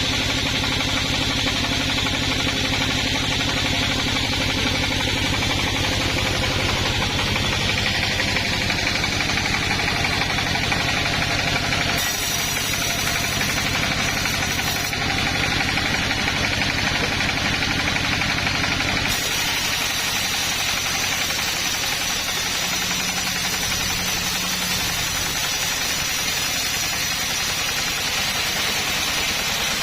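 Engine of a sawmill or chainsaw rig running steadily. Its sound changes abruptly about 12, 15 and 19 seconds in.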